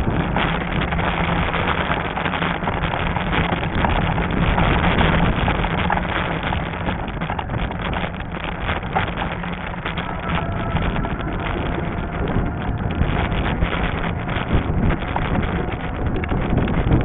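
Wind buffeting an action-camera microphone during a ride on a Lectric XP fat-tire e-bike along a trail, a steady rushing noise with a low rumble from the ride underneath.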